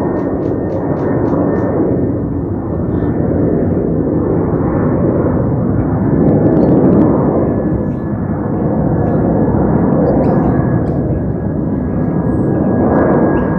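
Airliner flying past, its engines a loud steady rush that swells and eases, with a thin high whine slowly dropping in pitch as it goes by.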